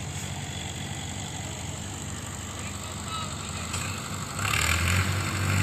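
Mahindra tractor diesel engines pulling under load in a tractor tug-of-war, a steady low chugging of rapid firing pulses. About four and a half seconds in they get louder, with a rushing hiss over the top.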